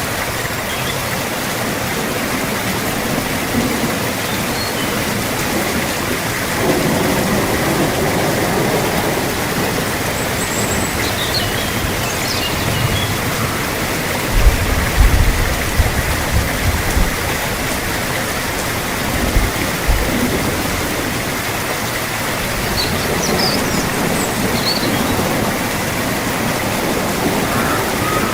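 Steady rainfall, an even hiss. A short low rumble comes about halfway through.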